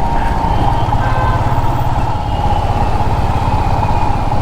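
Royal Enfield Himalayan's single-cylinder engine running steadily while the motorcycle is ridden in traffic.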